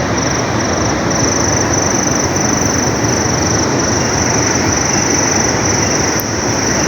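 Steady, loud rushing outdoor noise, with a high, thin chirring that pulses about twice a second through it.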